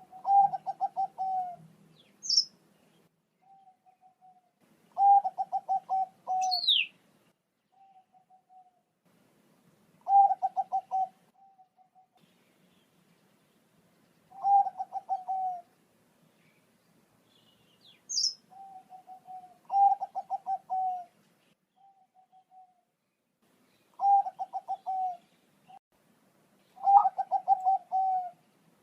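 Perkutut bangkok (Thai-bred zebra dove) singing its cooing song: seven phrases of rapid rolling coos, one every four to five seconds, with short single coos between them. A brief high chirp from another bird cuts in three times.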